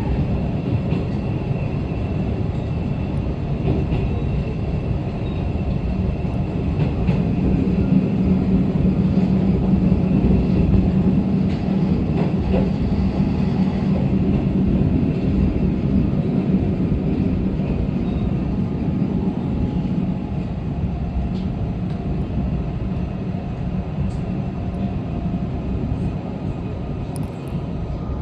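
Inside a running diesel railcar: a steady engine drone with wheel and rail noise, swelling for several seconds in the first half and easing in the second.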